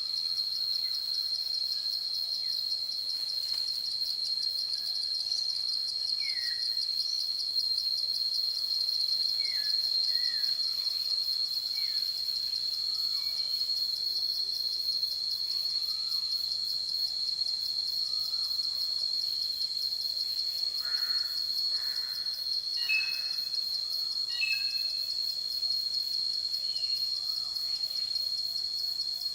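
Forest ambience: a steady, high-pitched, finely pulsing insect trill, like crickets, runs throughout, with short bird chirps scattered over it, a few clearer calls coming in the later part.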